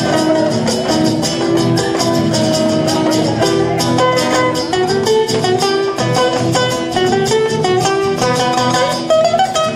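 Instrumental interlude of a chacarera: guitar playing with many hands clapping along in time in place of a bombo drum.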